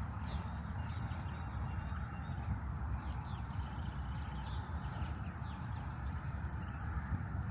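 Park ambience: a steady low rumble with small birds chirping now and then, including a few short chirps and a brief rapid trill about four to five seconds in.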